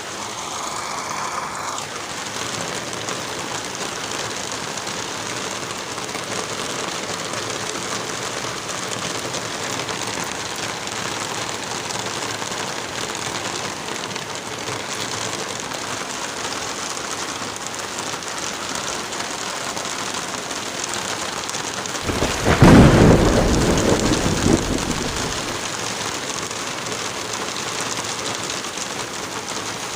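Light rain and wind in a forest, a steady hiss. About two-thirds of the way through, a loud low rumble swells and fades over about three seconds.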